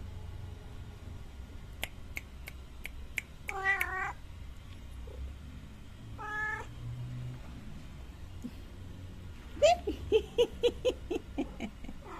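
Cat meowing: two drawn-out meows, then a quick run of short, loud mews near the end. Before the first meow there is a brief series of sharp ticks.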